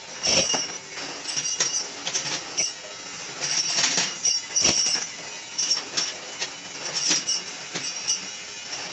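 Irregular metallic clanks and clinks of metal striking metal, each ringing briefly at a few high pitches, over a steady mechanical noise.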